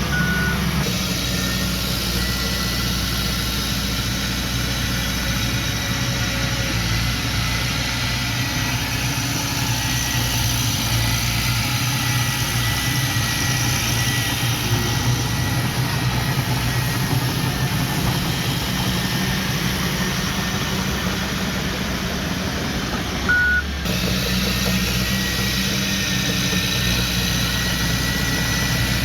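Heavy machinery engine running steadily at a low, even speed. A reversing-alarm beep sounds right at the start and again about 23 seconds in.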